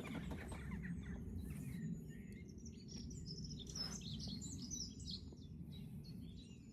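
Songbirds singing and chirping, several short calls and trills overlapping, over a steady low rumble. A brief rush of noise comes about four seconds in.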